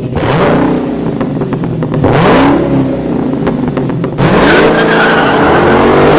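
A car engine revved hard in three rising surges about two seconds apart. The last rev is held high and falls away near the end.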